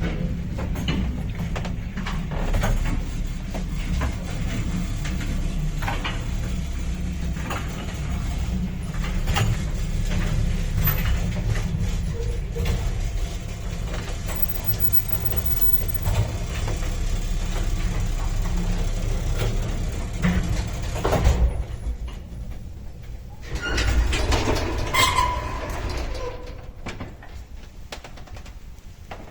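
1978 MOELZ passenger lift car travelling in its shaft: a steady low rumble with frequent creaks and clicks. About three-quarters of the way in there is a knock, then a short lull, then a louder clatter with a brief squeal that fades out.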